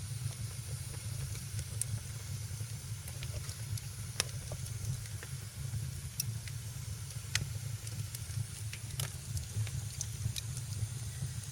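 Wood fire burning in a fireplace: a steady low rumble and hiss, with sharp crackles and pops at irregular moments every second or two.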